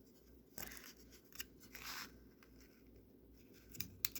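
Small plastic clicks and scrapes of a garage door remote's case being handled and pressed back together after a battery change, with two brief scraping rustles early and a few sharp clicks near the end.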